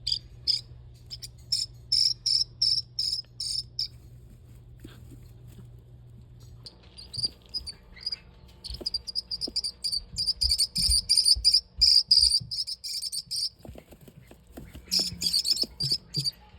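Baby bird cheeping in runs of short, high, rapidly repeated peeps, a begging call for food: a run at the start, a long dense run through the middle, and a short run near the end. Soft low knocks of handling come between the runs.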